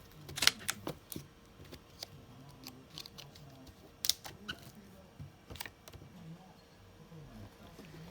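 Storage containers and items being handled: irregular light clicks and taps, a dozen or so scattered throughout, with a few sharper ones about half a second in, about four seconds in and past five seconds.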